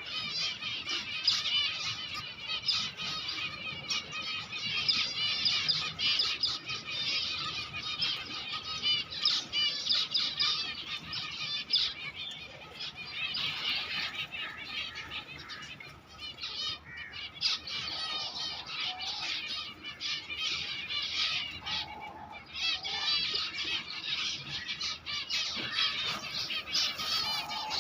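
Many small caged birds chirping and twittering in a dense, continuous chorus, with a few lower calls in the second half.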